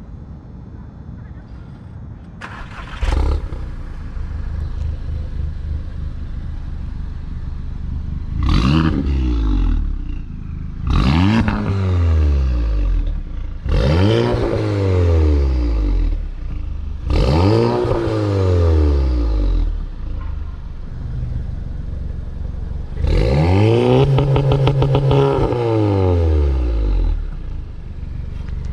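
Volkswagen MK7 GTI's turbocharged 2.0-litre four-cylinder, with downpipe and resonator delete, starting up about three seconds in and settling to idle. It is then revved four times, each rev climbing and dropping back, and near the end held high for about four seconds before falling back to idle.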